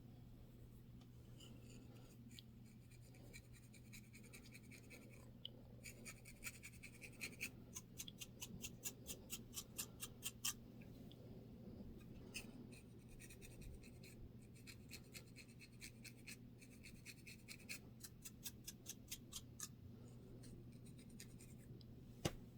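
Quiet scratching on a scalp with dandruff, in runs of quick strokes several times a second, over a faint steady hum. A single sharp click near the end.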